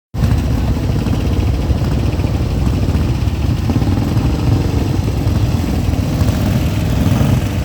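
Motorcycle engine running steadily with a low, rapidly pulsing rumble.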